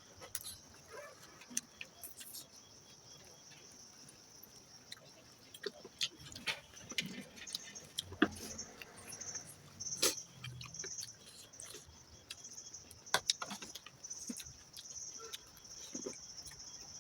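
Close-up eating sounds of spicy duck meat with rice being chewed: irregular small clicks, smacks and crunches. A steady high chirping of crickets runs underneath.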